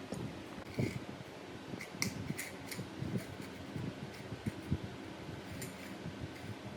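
Scattered light clicks and taps, irregularly spaced, over a faint steady hum.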